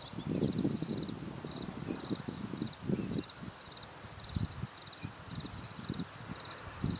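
Insects chirping steadily in a high, rapidly pulsing chorus, with irregular low rumbles underneath.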